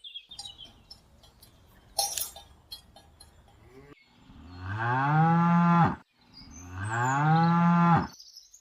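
Cow mooing: two long, low moos one after the other in the second half, after a few scattered knocks and clanks in the first half.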